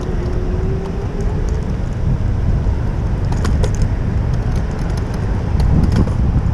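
Steady low rumble of wind and road noise on a bicycle-mounted GoPro riding in city traffic, with scattered light rattling clicks and a faint steady tone in the first second or two.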